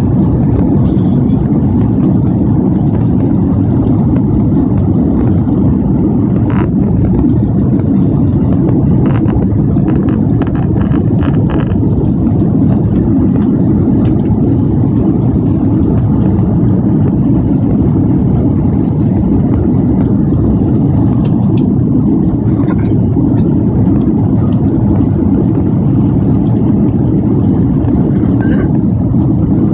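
Passenger aircraft engines and rushing air heard as a steady, low, even rumble inside the cabin.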